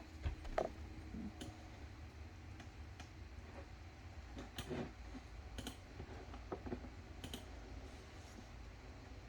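Faint, irregular light clicks and taps, a dozen or so scattered through, over a low steady hum.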